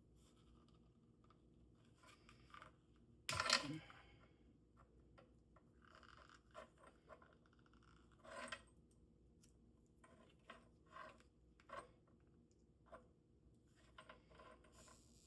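Small handling noises from working inside the opened MIG welding gun handle: scattered clicks, rustles and scrapes of plastic, wire and electrical tape, with one louder crackling rustle about three seconds in.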